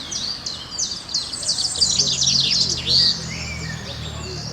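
Songbirds chirping, with many quick high chirps tumbling over one another, busiest a second or so in.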